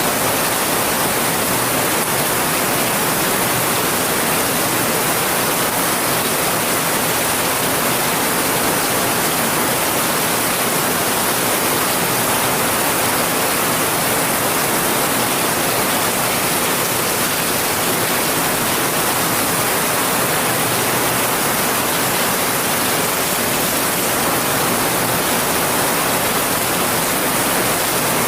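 Heavy rain falling: a steady, dense hiss.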